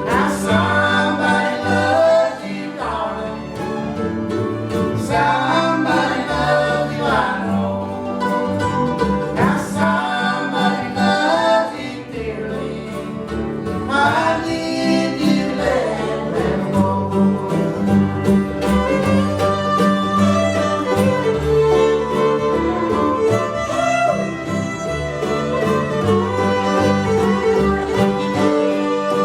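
A string band playing a country duet song live, with fiddle and guitar over a stepping bass line, and singing voices.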